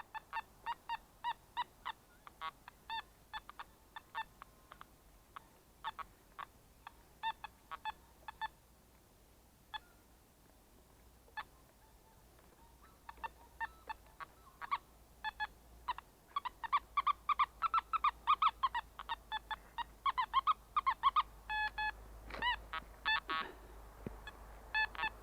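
Nokta Makro metal detector giving short pitched beeps as its coil is swept over the ground: scattered signals at first, then a quick run of beeps that waver up and down in pitch in the second half, with a falling tone near the end.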